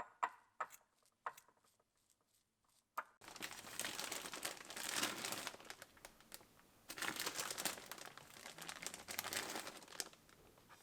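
A few light clicks and taps, then from about three seconds in, packaging crinkling and rustling in two long spells as it is handled.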